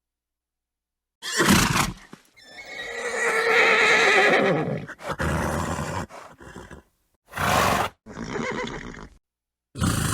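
A horse neighing: one long, quavering whinny that falls in pitch, set among several short snorts.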